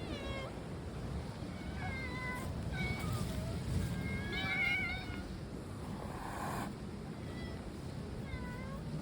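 Domestic cats meowing, a string of short meows of varying pitch, about six or seven of them, some overlapping as if from more than one cat.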